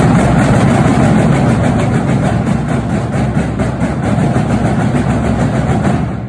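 Drumline playing an exercise together, a loud dense wash of fast strokes with a faint quick pulse, stopping together near the end and ringing out briefly in the room.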